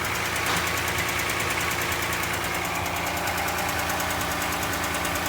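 Toyota 2GR-FE 3.5 L V6 idling with a fast, even knock. The owner notices the knock most on a cold engine. A new timing chain with new guides and new VVT-i couplers have not cured it, and the mechanics suspect one of the pistons in the rear bank.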